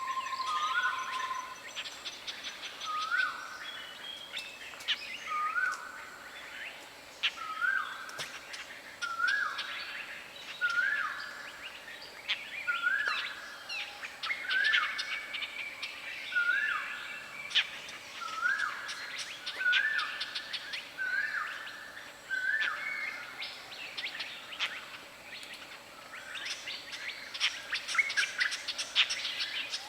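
A bird repeating a short rising whistled note about once a second, stopping a little past two-thirds of the way through. Other birds chirp higher over it, thickening into a busy burst of chirps near the end.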